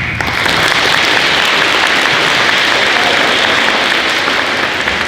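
Audience applauding in a gymnasium, a dense steady clatter of many hands that eases off near the end.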